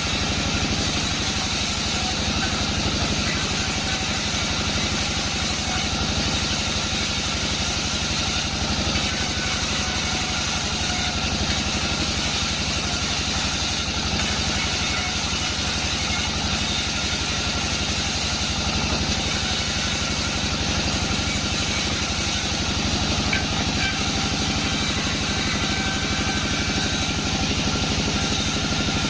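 Engine of a sawmill bandsaw running steadily, with an even pitch and level and no change in load.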